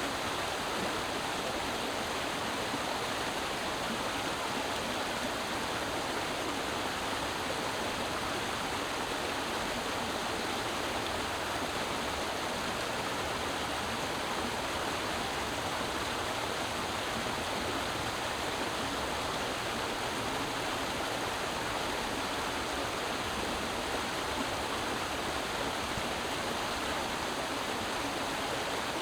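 Creek water flowing and splashing over rocks: a steady, even rush with no changes.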